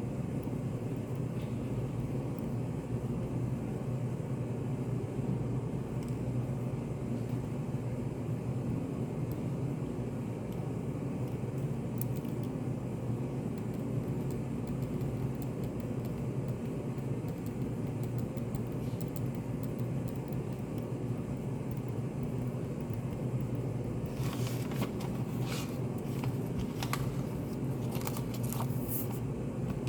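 Study café room ambience: a steady low hum. A scatter of small clicks and rustles comes in a few seconds before the end.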